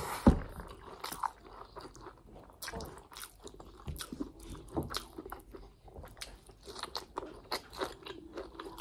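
Close-up mouth sounds of a person eating chicken and rice by hand: chewing with wet lip smacks and many short, irregular clicks, with one louder thump just after the start.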